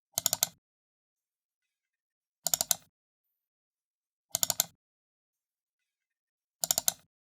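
Computer mouse button double-clicked four times, about two seconds apart; each double-click is a quick cluster of sharp plastic clicks.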